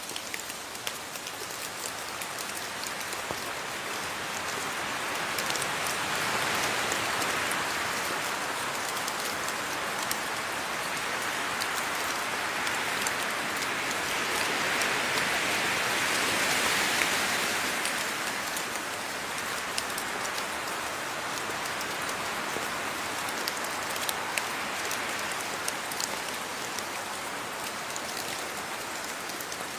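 Steady rain falling, a dense patter of drops on a surface, swelling heavier for a few seconds about halfway through before easing back.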